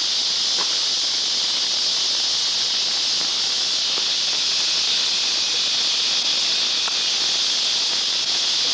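Insect chorus: a loud, steady high-pitched drone of many calling insects, with a few faint ticks.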